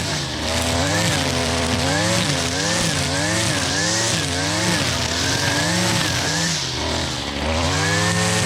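Gas two-stroke weed eater (string trimmer) running at high speed while cutting. Its engine pitch rises and falls over and over, about one and a half times a second, as the line bogs in the tall grass and weeds and recovers.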